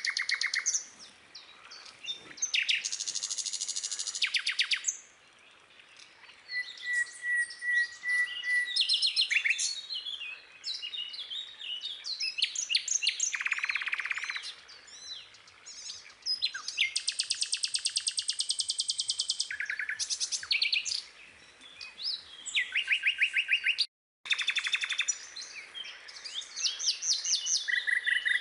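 Birdsong: several birds chirping and singing, with fast trills of rapidly repeated high notes overlapping one another. A brief gap of complete silence comes near the end.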